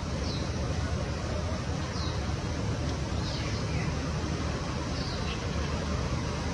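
A bird giving four or five short, high, downward-sliding chirps spaced a second or so apart, one sliding further down than the rest, over a steady low rumble.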